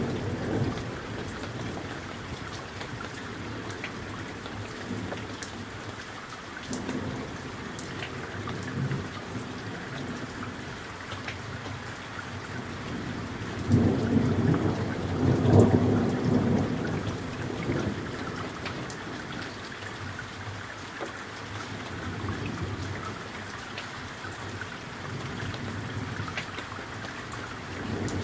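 Summer thunderstorm: steady rain falling, with scattered drop ticks, and rolling thunder, loudest in a long rumble about halfway through.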